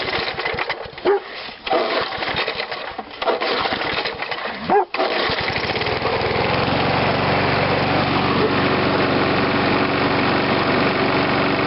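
Old 3 hp Briggs & Stratton single-cylinder engine on a Snapper Hi-Vac mower sputtering unevenly, then catching about five seconds in and settling into steady running; it is starting after sitting unused for about 15 years. A dog barks a few times during the uneven part.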